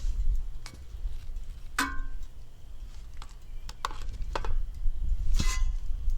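Scattered metallic clinks of steel pieces, one ringing clank about two seconds in, over a steady low rumble, during oxy-fuel torch cutting of thick steel.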